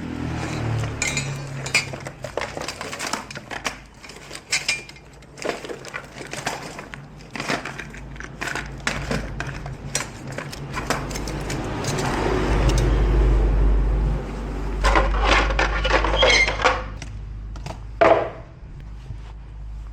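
Repeated clicks, clinks and knocks of small hard objects being handled, with a low rumble swelling in the middle and a sharper knock near the end.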